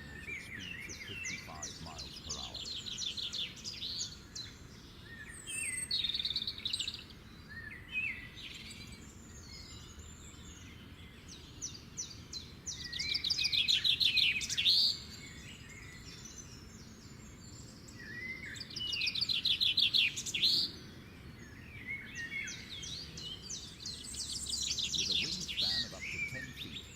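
Small songbirds singing: repeated high chirps and fast rattling trills, with louder phrases about halfway through and again about two-thirds of the way through.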